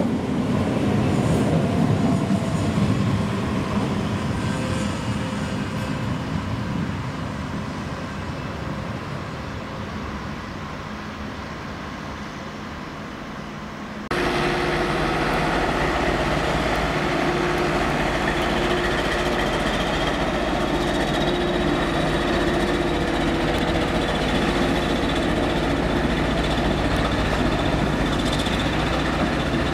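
CP 3400 electric multiple unit pulling away from the platform, its rumble fading steadily over about twelve seconds. About 14 s in the sound changes abruptly to a steady locomotive engine running at a constant pitch.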